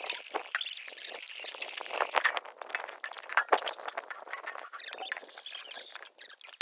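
Metal household vessels being scrubbed by hand, with continuous scraping and irregular sharp clinks of metal on metal.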